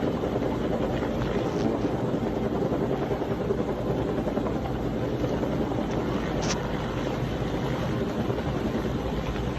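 Helicopter running steadily, the sound of its rotor and engine unchanging throughout.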